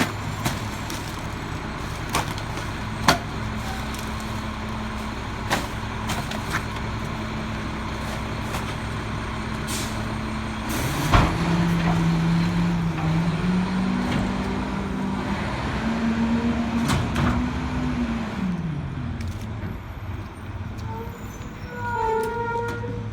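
Garbage truck's diesel engine idling under scattered knocks and bangs from trash and cans. About eleven seconds in, after a sharp bang, the engine speeds up as the McNeilus rear loader's hydraulic packer cycles. It holds the higher speed for several seconds, then drops back to idle.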